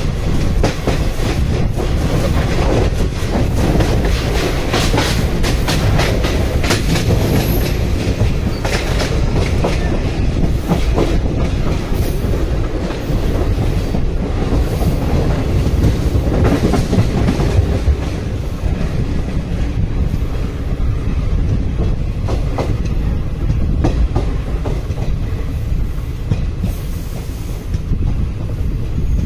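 Indian Railways passenger train running, heard from a sleeper coach window: a steady low rumble with the clickety-clack of wheels over rail joints. The clicks come less often in the second half.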